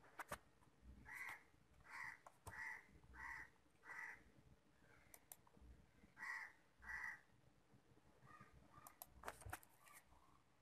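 Faint, short, harsh bird calls repeated about seven times, each about a third of a second long, most of them in the first seven seconds, with a few faint clicks.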